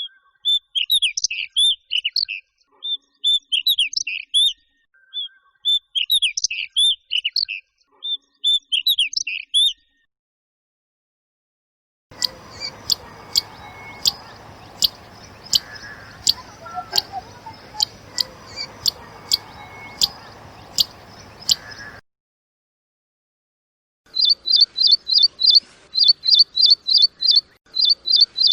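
Three wild bird recordings in turn. First, about ten seconds of quick whistled song phrases repeated in groups. After a pause, sharp single call notes roughly once a second over a steady background hiss, then, after another gap, a bird repeating quick high notes in fast runs.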